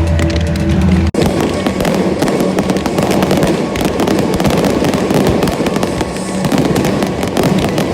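Fireworks crackling and popping in a dense, rapid barrage over low droning music. The sound cuts in abruptly about a second in, after a moment of the music alone.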